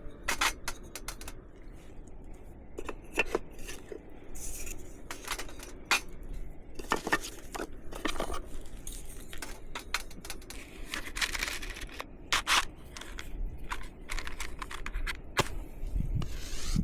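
Wood fire crackling, with irregular sharp pops and snaps and a few short hissing flares.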